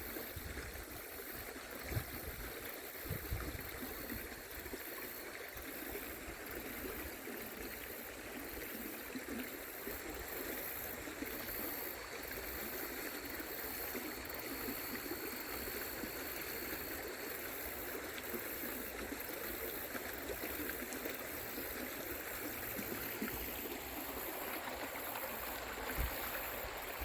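Creek water running steadily over rocks, a continuous rushing and trickling.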